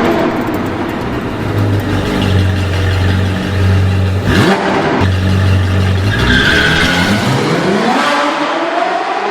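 Car engine sound: a steady low drone, broken by a sharp sweep about four seconds in, then rising in pitch as the engine revs up.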